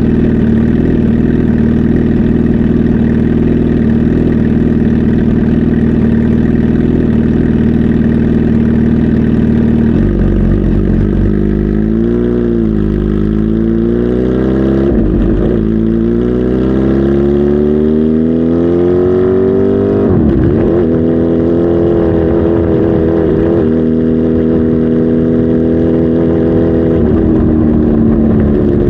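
Kawasaki Z H2 SE's supercharged inline-four idling steadily for about ten seconds, then being revved: the pitch swings up and down, climbs slowly, dips sharply about twenty seconds in, then holds at a higher steady speed before settling slightly lower near the end.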